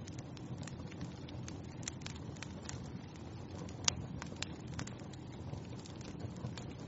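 Wood fire burning in a fireplace, a steady low rumble of flames with irregular crackles and pops, the sharpest snap about four seconds in.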